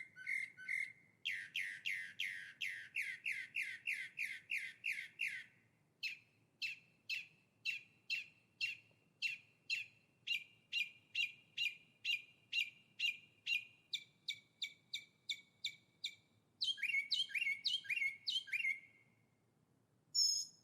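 Songbird singing long series of short, repeated down-slurred whistled notes: fast at first, then about two notes a second, then a quick burst near the end.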